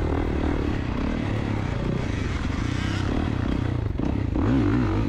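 KTM two-stroke dirt bike engine running under the rider's throttle, its pitch rising and falling a few times near the end.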